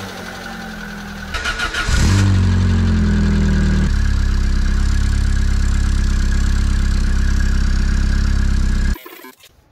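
Citroën Saxo engine cranking on the starter and catching about two seconds in. It runs fast for a moment, then drops to a steady idle about four seconds in, and cuts off abruptly near the end. The owner finds its welded-up exhaust still leaking.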